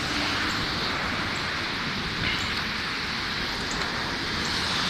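Steady hiss of rain falling, mixed with floodwater running across a flooded yard.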